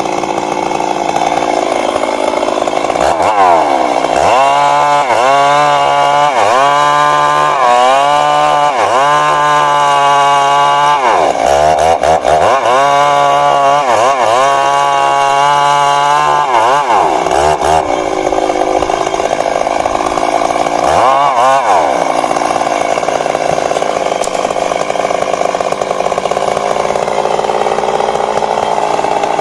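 Stihl MS 382 two-stroke chainsaw cutting into a large old tree trunk. The engine note rises and falls over and over for much of the stretch as the bar is worked in the cut, then settles back to a steady cutting sound near the end.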